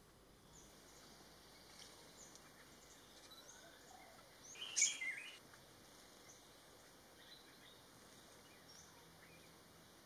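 Faint, steady forest background with a short bird call about five seconds in, and a few fainter chirps scattered around it.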